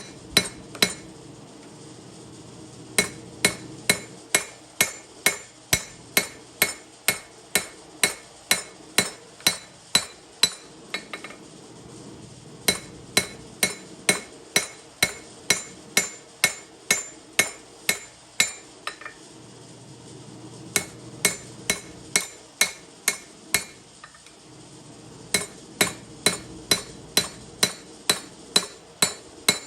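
Hammer striking the steel of a chef-knife blade being forged on an anvil: sharp, ringing blows at about two a second, in runs of several seconds broken by short pauses.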